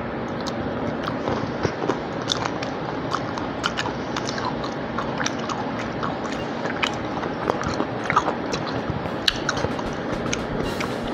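Close-miked chewing of soft fried cabbage: irregular wet mouth clicks and smacks over a steady background hiss.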